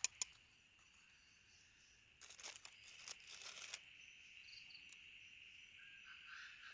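Steady high trilling of insects, crickets by the sound, with two sharp clicks at the very start and about a second and a half of crackling rustle in the middle.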